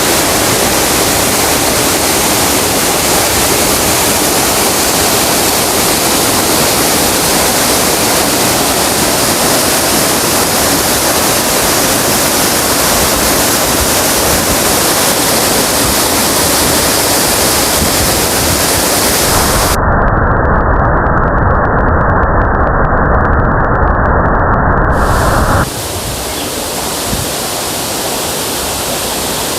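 A waterfall's loud, steady rushing of falling water. About two-thirds of the way in, the sound abruptly turns duller and deeper for about six seconds, then returns a little quieter.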